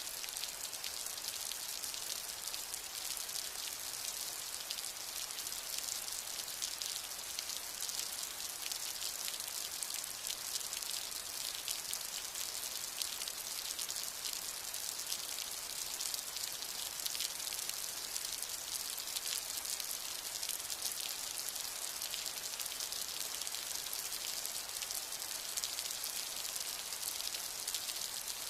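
Steady rain falling: a dense, even patter of drops, with most of its sound high in pitch and no rise or fall in strength.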